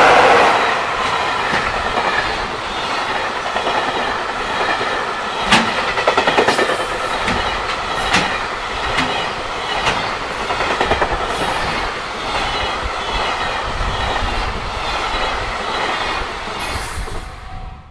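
A JR Freight EF66 electric locomotive passes close by, loudest in the first second. Behind it a long freight train of Koki container flat wagons rolls past at speed: a steady rumble of wheels on rail with irregular sharp clacks as the wheels cross rail joints. The sound cuts off abruptly at the end.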